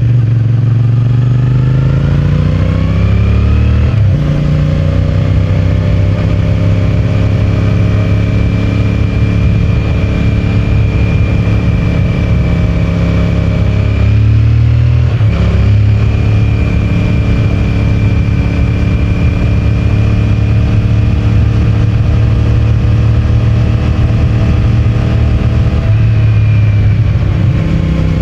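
CFMOTO 450MT's parallel-twin engine through its stock exhaust. It accelerates through the gears, with upshifts about four seconds in and again about fifteen seconds in, and cruises at steady revs in between.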